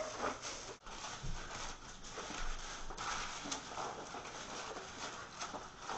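Aluminum foil crackling and rustling as it is handled and pressed over baking pans, with small scattered taps.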